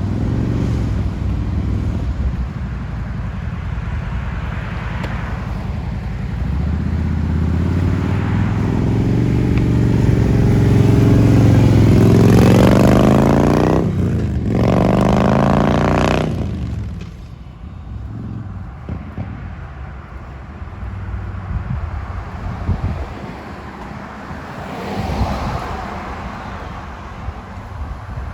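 A motor vehicle's engine getting louder as it approaches, then accelerating past with its pitch climbing in two pulls and a gear change about 14 seconds in, before dropping away.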